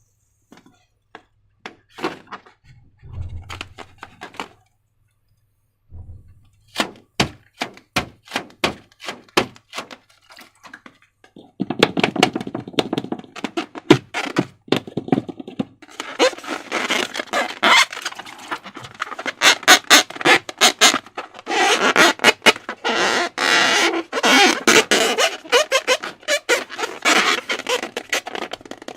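Sticky slime being worked by hand: scattered wet clicks and a couple of low thuds at first, then a run of clicks at about two a second, then dense crackling, squelching sounds from a little before halfway on.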